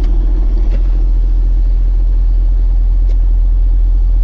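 Tow truck's engine running with a steady low rumble.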